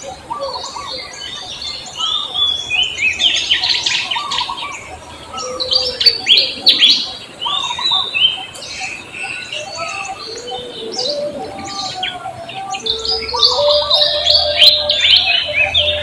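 Birds chirping: many short, falling chirps overlapping one another, with fainter, lower held notes underneath.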